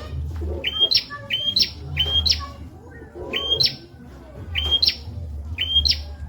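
Prinia (prenjak) singing: a short, bright chirped phrase that jumps up in pitch, repeated about once a second, over a low hum.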